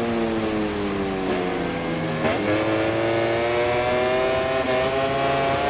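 MotoGP racing motorcycle's engine heard onboard, its pitch falling as the bike slows for a corner. About two seconds in comes a brief sharp blip, then the pitch rises steadily as the bike accelerates out.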